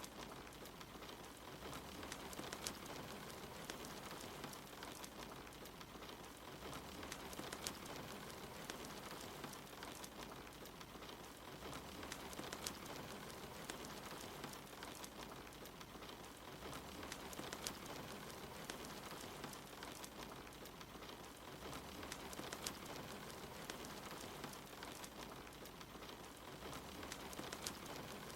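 Steady patter of rain mixed with the scattered sharp crackles of a wood fire, faint and even, in a short loop that repeats about every five seconds.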